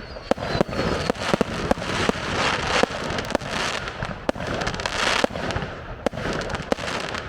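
Aerial fireworks: a rapid run of sharp bangs, several a second, mixed with swelling bursts of crackling from crackle shells.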